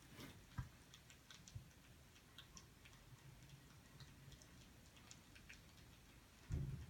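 Faint, irregular crackles and pops of burning firewood, with one low thump near the end.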